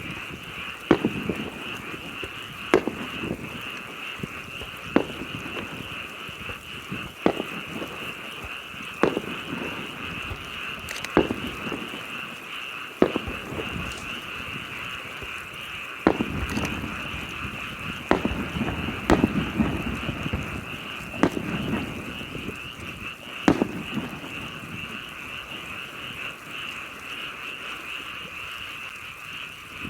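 Aerial firework shells bursting, booming every couple of seconds and then thinning out, over a steady chorus of frogs.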